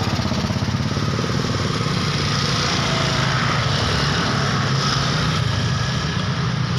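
A small vehicle engine running steadily, a continuous low drone with no change in pace.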